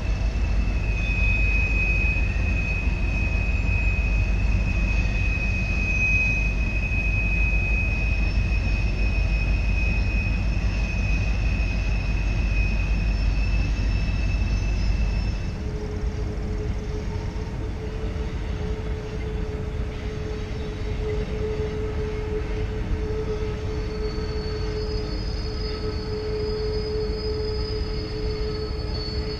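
Freight train rolling around a tight curve, its wheels squealing in a steady high tone over a low rumble. About halfway through the sound switches abruptly to a lower, steady squeal with a quieter rumble.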